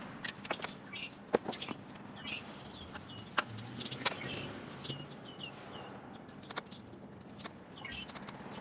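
Irregular sharp clicks and clinks of hand tools on metal engine parts, with birds chirping now and then.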